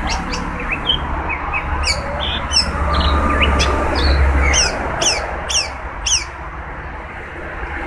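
Long-tailed shrike (cendet) calling: a series of short, sharp notes sweeping quickly down in pitch, about one every half second, over a steady low hum and hiss.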